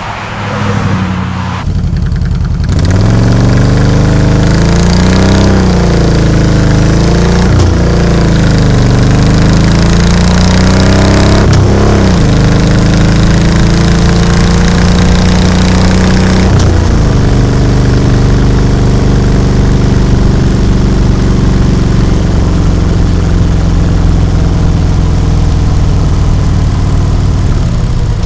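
Harley-Davidson Road King's V-twin engine and exhaust on the road. It grows loud about two and a half seconds in, rises and falls in pitch through several gear changes, then settles into a steadier cruise that eases off slowly.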